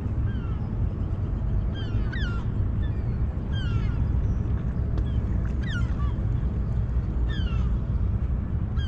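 Seagull calling: a series of short squawks, each falling in pitch, repeated every second or two over a steady low rumble.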